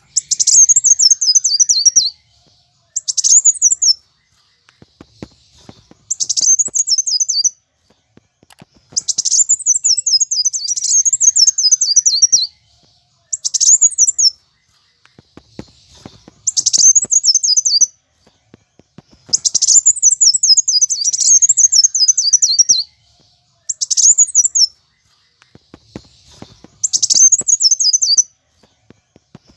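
Kolibri wulung (kowul) sunbird singing hard in excited, combative mode: bursts of rapid, high, descending chittering trills, each lasting one to three seconds, repeated with short pauses between them.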